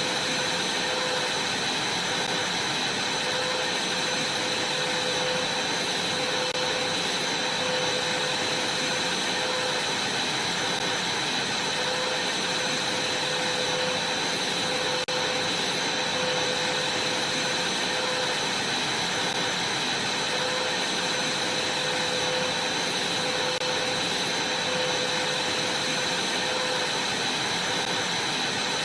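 Vacuum cleaner running steadily, a constant whine over a broad rushing hiss with no change in pitch.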